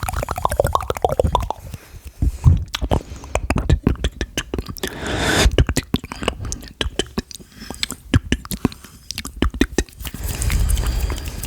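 ASMR mouth sounds: wet clicks and smacks of lips and tongue in quick, irregular runs, with a short breathy hiss about five seconds in.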